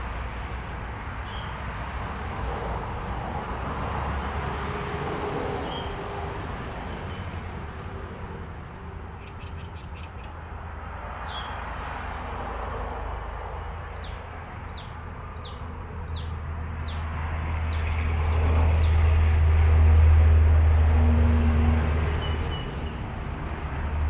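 Background rumble that swells and fades in the second half, like passing traffic, with a bird giving a run of about seven quick, high, falling chirps in the middle and a few faint chirps elsewhere. A brief cluster of small clicks comes just before the chirps.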